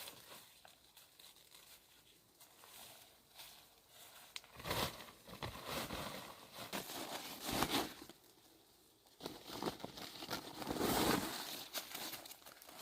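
Crinkling and rustling in irregular spells, with a louder stretch in the middle and another near the end.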